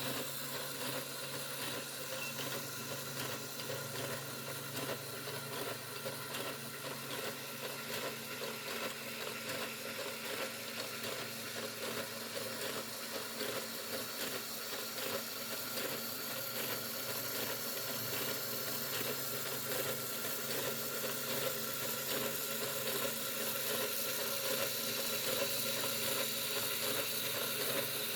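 Mould King 10087 building-block L4 engine model running on its electric motor: a steady whir with the clatter of plastic pistons and gears turning, growing slightly louder toward the end.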